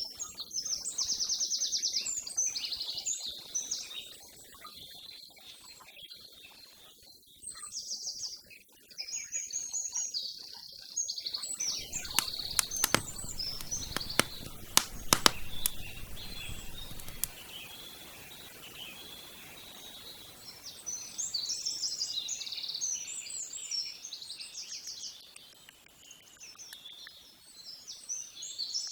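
Small songbirds chirping and singing in quick repeated trills. About halfway through there is a cluster of sharp clicks over a low rushing noise.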